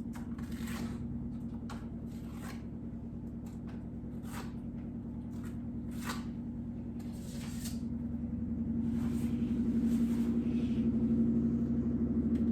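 A drywall knife or trowel scraping joint compound across a wall in short, separate strokes, about one every second or two. A steady low hum runs underneath and grows louder in the second half.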